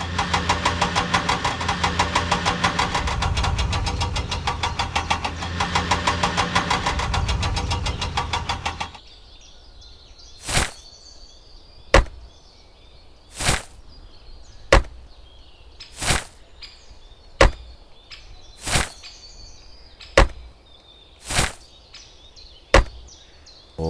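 A small engine chugging with a fast, even beat, then cutting off suddenly about nine seconds in. After it come about ten sharp knocks, evenly spaced at roughly one every second and a half.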